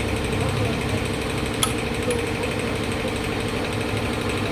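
A machine running steadily with a rapid, even rattle, with a single sharp click about a second and a half in.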